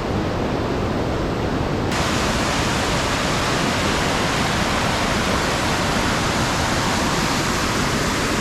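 Steady, loud rush of water at a dam, an even hiss that gets suddenly brighter about two seconds in.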